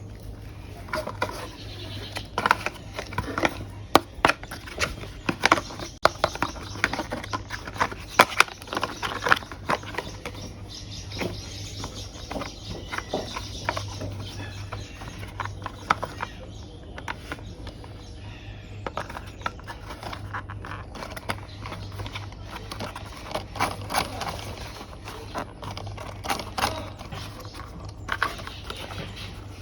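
Hard plastic toy vehicle parts handled and pressed together: irregular clicks, taps and knocks, thickest in the first ten seconds and again near the end, over a steady low hum.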